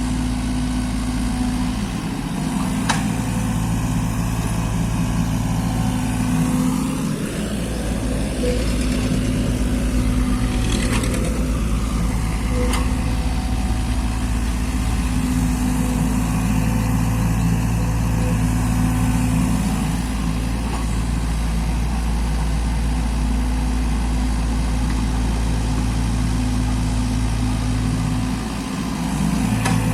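Mini excavator's diesel engine running steadily, its note dipping briefly a few times, with occasional short knocks.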